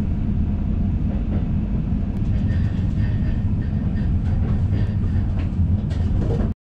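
Running noise of a JR East train heard from inside a passenger car as it passes along a station platform: a steady low rumble with scattered clicks from the wheels on the track, and a faint high whine about halfway through. The sound cuts off suddenly near the end.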